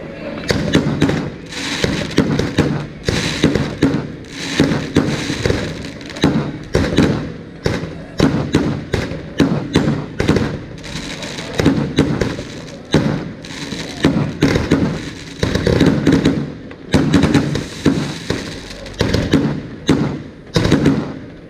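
Aerial fireworks bursting overhead in a steady barrage, a bang every half second to a second with crackling between them.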